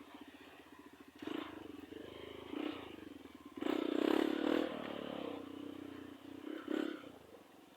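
Trail motorcycle engine pulsing at low revs, then revved in several surges, the loudest about four seconds in, with a short blip near the end.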